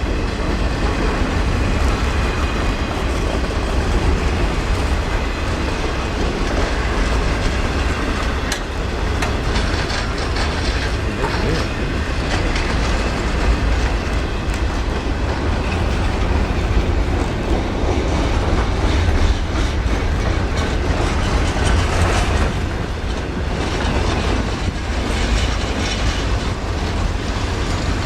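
A train going by at speed: a steady, loud rumble of rail cars and steel wheels, with clickety-clack from the wheels over the rails.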